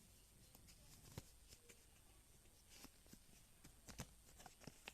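Near silence with a few faint, scattered taps and rustles of a sheet of paper being handled and folded.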